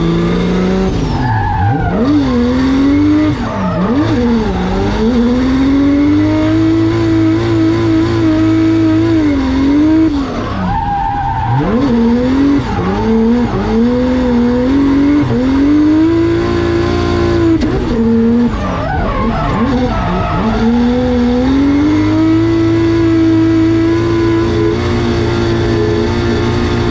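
2JZ straight-six of a Nissan S15 drift car revving hard through a drift run. The revs are held high for several seconds at a time, dip sharply between corners and climb again, with tyres squealing.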